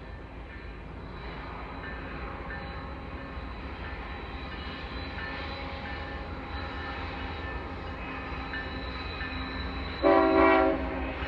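Train running with a steady low rumble and a faint engine drone, then a short horn blast about ten seconds in.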